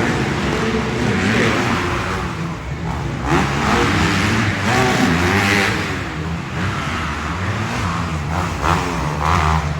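Several motocross dirt bikes racing, their engines revving up and down as the riders work the throttle.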